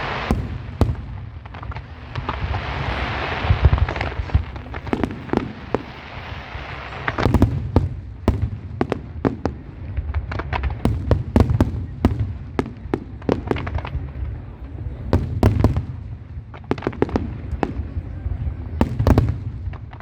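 Fireworks display: a crackling, hissing spell of bursts for the first few seconds, then from about seven seconds in a rapid run of sharp bangs from shells going off in quick succession, over a steady low rumble.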